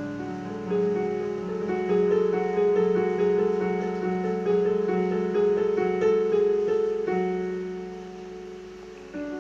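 Background music: a piano playing a gentle repeated pattern of notes, with a held chord fading out near the end.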